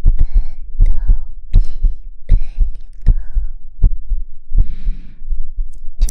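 Soft, deep rhythmic thumps repeating a little more than once a second, heartbeat-like, with light rustling over them and a brief breathy hiss about two-thirds of the way through.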